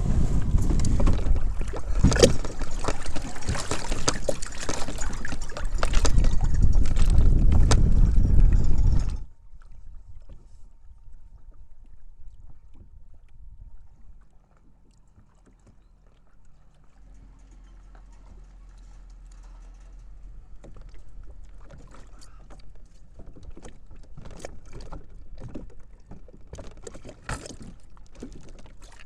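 Strong wind buffeting the microphone, loud and gusty, cutting off abruptly about nine seconds in. What follows is much quieter, with faint scattered clicks and ticks.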